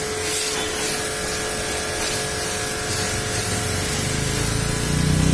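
High-pressure water jet spraying with a steady hiss, over the even whine of the pressure-washer pump. A low hum swells about four seconds in.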